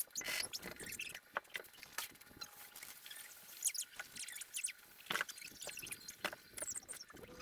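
Young puppies squeaking and whimpering in many short, high-pitched cries.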